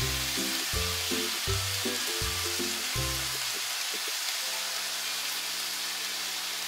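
Chicken and mushrooms sizzling in a frying pan as white sauce is poured in, under background music whose low notes repeat about every three-quarters of a second and then settle into held notes past the middle.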